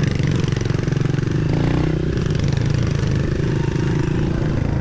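Pit bike engine running while riding, its note rising and easing a little with the throttle.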